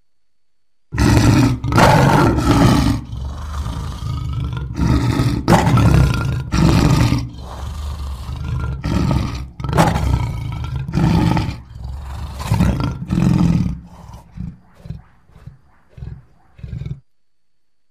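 Lion roaring: a string of loud, deep roars starting about a second in, trailing off near the end into a run of short grunts.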